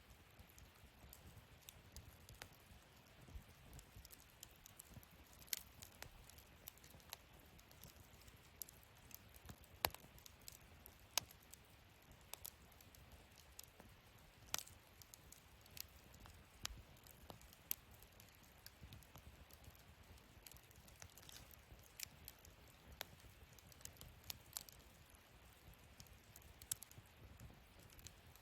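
Wood fire burning in a fire-pit stand, crackling faintly with irregular sharp pops, a few of them louder, over a faint low rumble.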